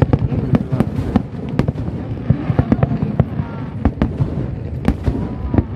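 Aerial fireworks shells bursting in a rapid, irregular series of sharp bangs, several a second, over a continuous low rumble of the display.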